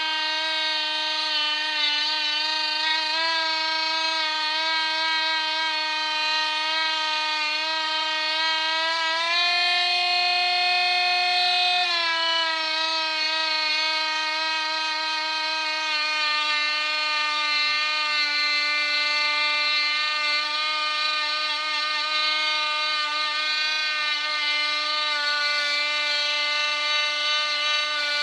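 Parkside cordless multi-grinder running with a buffing disc, polishing a Brasso-coated candlestick holder. It gives a steady, high motor whine whose pitch rises a little about nine seconds in and drops back about three seconds later.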